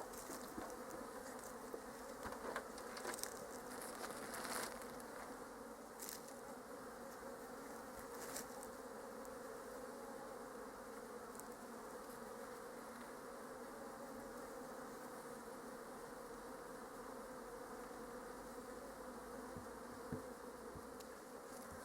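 Honeybee colony humming steadily from an opened hive. A few light knocks and clicks in the first several seconds.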